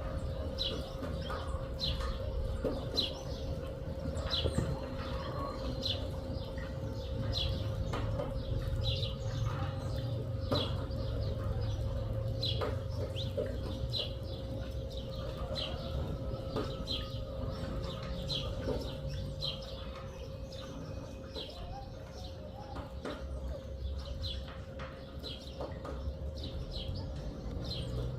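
Birds chirping: short high chirps repeating about once a second, over a steady low hum.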